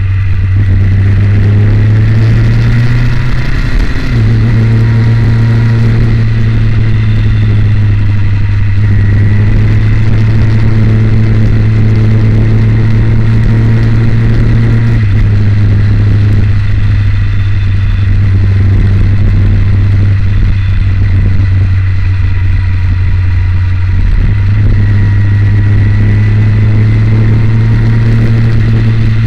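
Motorcycle engine running at road speed, recorded by an on-board camera, with wind and road noise. The steady drone shifts pitch a few times, about 4, 15 and 24 seconds in.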